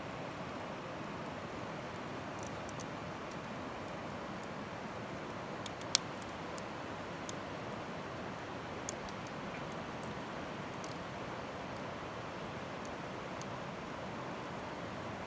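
Wood campfire burning: a steady hiss with scattered small crackles and one sharp pop about six seconds in.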